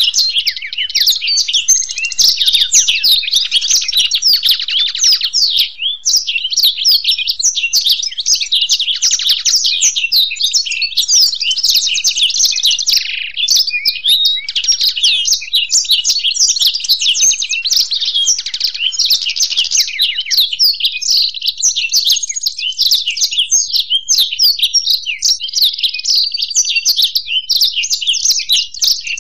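Black-throated canary and European goldfinch singing together in a continuous, dense stream of rapid trills and twitters, without a pause.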